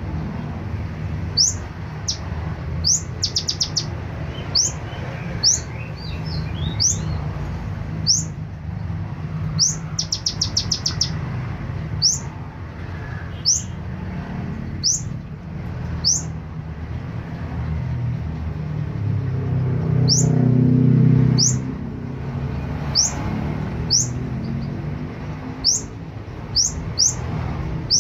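Kolibri ninja (konin) sunbird calling: sharp, high, rising chirps about once a second, broken by a few quick trills of several notes. A steady low hum runs underneath and swells briefly about twenty seconds in.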